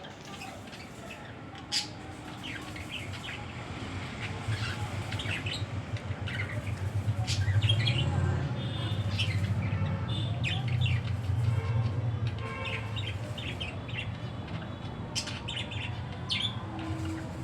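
Small garden birds chirping and tweeting in many short, quick calls, with the odd squawk. A low engine rumble rises underneath from a few seconds in and stays.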